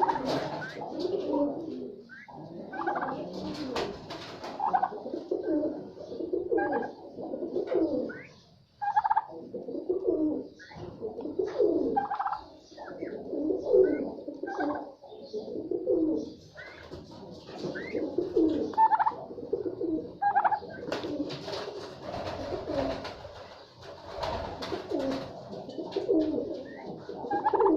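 A flock of domestic birds calling: low, warbling, cooing notes repeat about once a second, overlapping one another, mixed with short higher chirps.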